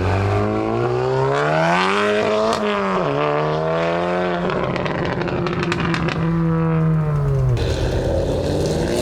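Car engine accelerating hard, its pitch climbing, then dropping sharply at an upshift about three seconds in. It pulls again and holds steady, then the pitch falls away near the end as the car lets off.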